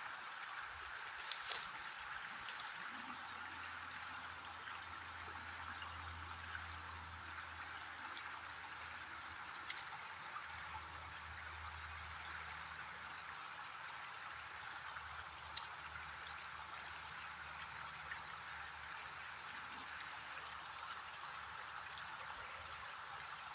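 Steady rushing water noise, with a few sharp clicks now and then.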